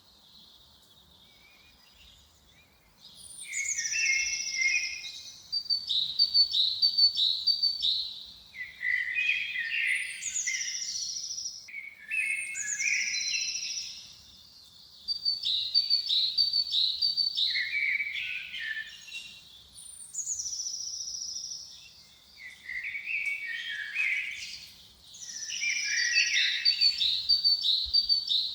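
A songbird singing the same phrase over and over, starting about three seconds in. Each phrase opens with a high held note, then a quick run of notes and lower twittering.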